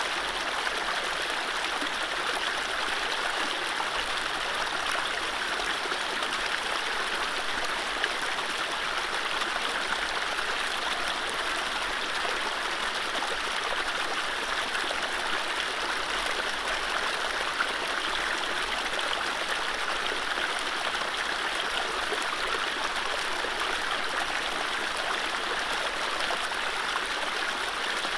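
Mountain stream running over low rapids: a steady rush of water with a trickling, gurgling texture and no birdsong.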